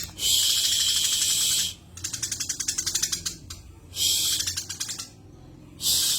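Eurasian tree sparrow chattering: fast trains of dry clicking calls (the 'cetrekan' chatter), broken by dense rasping bursts, the longest over a second long starting about half a second in, shorter ones around four seconds and near the end.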